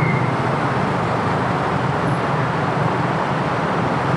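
Motorcycle riding through traffic: a steady engine drone mixed with road and wind noise.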